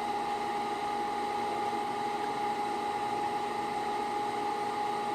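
Desktop computer's cooling fan running at high speed: a steady whine over a rushing of air.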